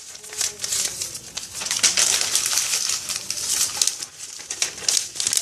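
Paper being crumpled and burning with a dense, irregular crackle, fed into a small paper fire. A faint low, falling coo-like tone shows in the first second or so.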